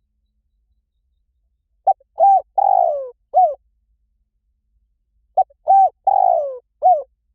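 Spotted dove cooing: two matching four-note phrases about three and a half seconds apart, each a short note, a clipped coo, a longer coo that falls in pitch, and a final short coo.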